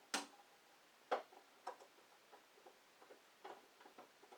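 Handling of tools and wood: a sharp knock right at the start and another about a second later, followed by a few fainter clicks and taps.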